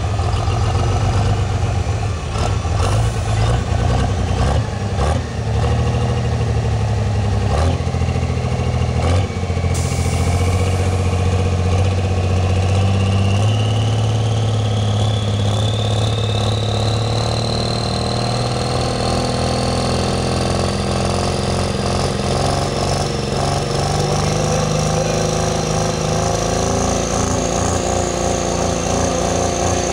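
Diesel truck engine running hard under load during a truck pull, with a high whine that climbs steadily through the second half.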